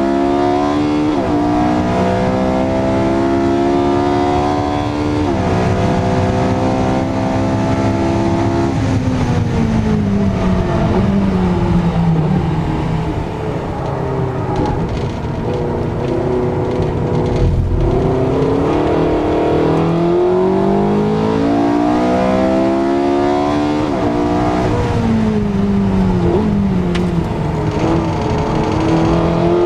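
Porsche 918 Spyder's V8 engine at full throttle, its pitch climbing and then dropping sharply twice in quick upshifts. Its pitch then falls steadily as the car slows, stays low for a while, and climbs again with another upshift.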